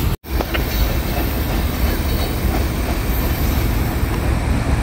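Freight train cars rolling slowly past on the rails: a steady rumble of wheels on track with a low drone underneath. The sound drops out for an instant just after the start.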